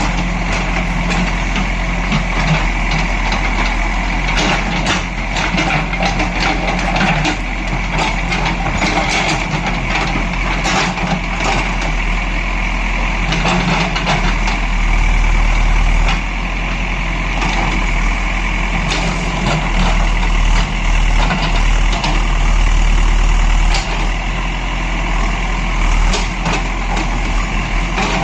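Backhoe loader's diesel engine running steadily, growing louder for a few seconds at a time under load, with scattered sharp knocks and clanks.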